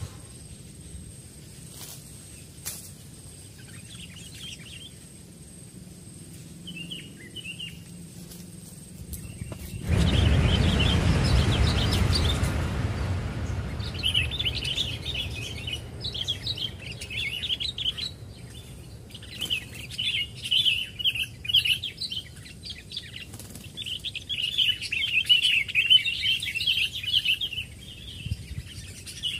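Bulbul calls, quick chattering chirps, faint at first and then coming in loud repeated bursts for the second half. About a third of the way in there is a loud rustling noise that fades over a few seconds.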